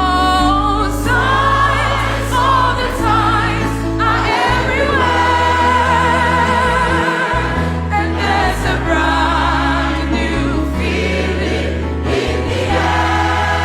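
Gospel music: voices singing with vibrato over sustained low bass notes that change every second or two.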